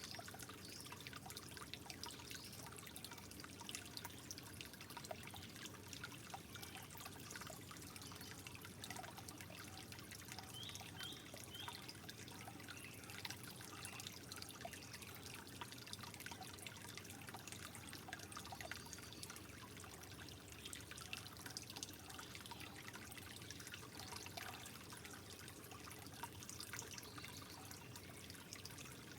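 Water trickling softly and steadily, with many small droplet plinks.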